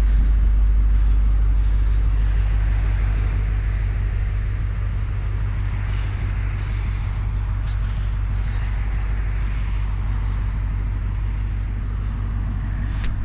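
Class 43 HST power car's diesel engine idling: a loud, steady low rumble that eases off slightly over the seconds.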